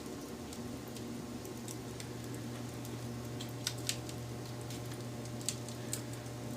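Wood fire burning with a steady low rush and scattered crackles, with a few sharp pops in the second half.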